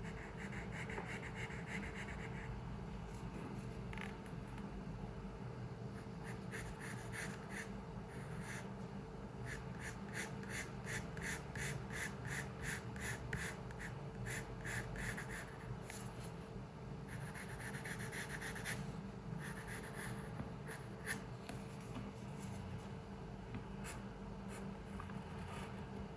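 Pencil scratching on paper in drawing strokes. There are longer strokes near the start and again about two thirds of the way through, and in the middle a run of quick short strokes, about two or three a second. A steady low hum sits underneath.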